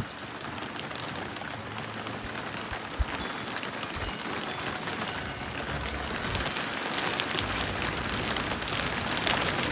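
Heavy rain of large monsoon drops hitting surfaces, building steadily heavier, with one sharp knock about three seconds in.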